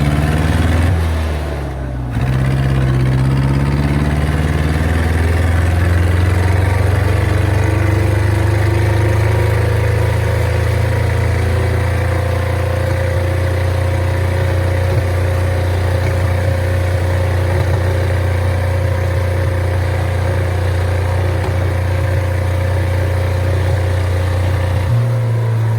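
Tractor diesel engine running loud and steady. Its speed shifts and dips briefly about two seconds in, then holds constant, with a small step in pitch near the end.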